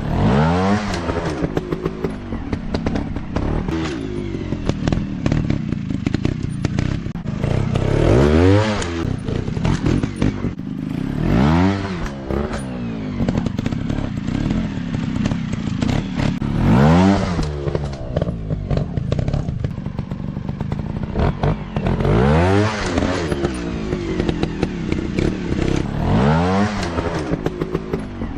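Dirt-bike engines running hard off-road, revving up and falling back again and again, every few seconds, with clattering knocks throughout.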